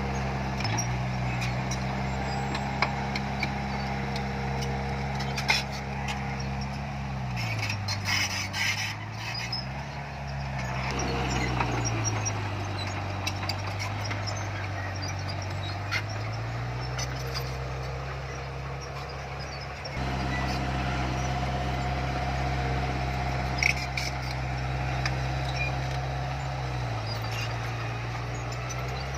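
Diesel engine of heavy earthmoving machinery running steadily. Its pitch drops and rises again several times as it throttles down and back up. There are a few short metallic clanks.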